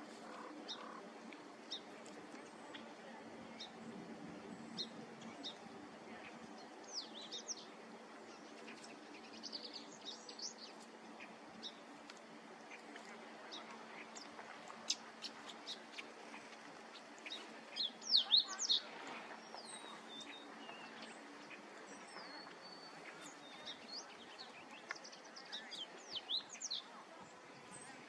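Small birds chirping: scattered short, high chirps and a few whistled notes, with a louder run of chirps a little past the middle. A faint low hum sits underneath and stops about three-quarters of the way through.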